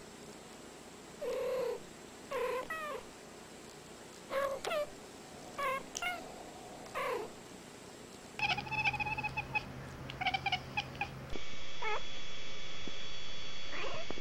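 Domestic cats trading short chirping meows, about eight brief calls with bending pitch over the first eight seconds. After a cut, a quicker run of short chattering sounds follows, then a cat's call or two over a steady background hum.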